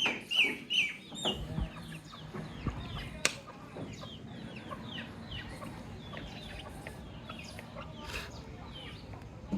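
Baby chicks peeping: a stream of short, high cheeps, each falling in pitch, loudest and closest together in the first second or so, then fainter ones scattered throughout. One sharp click about three seconds in.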